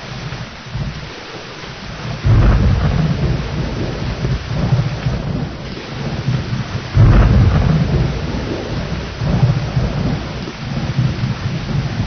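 Thunderstorm: steady heavy rain with deep rolling thunder. Two loud thunderclaps break in, about two seconds in and again about seven seconds in, each rumbling away over a few seconds.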